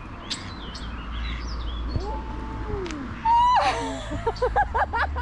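Songbird chirping with short high notes. Past the middle a louder sound slides down in pitch and breaks into a quick run of repeated notes, about five a second.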